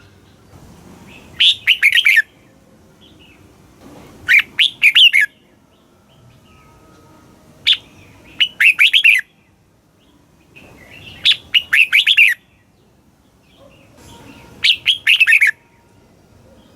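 Red-whiskered bulbul singing: five short phrases of quick, warbling notes, one about every three seconds.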